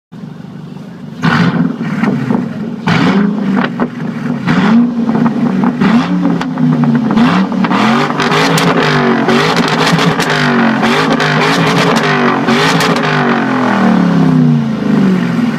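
Ford Mustang engine through a Borla aftermarket exhaust being revved in place. It starts with a series of separate throttle blips about a second in, each rising and falling in pitch, then runs into a quicker string of revs that dies down near the end. Loud.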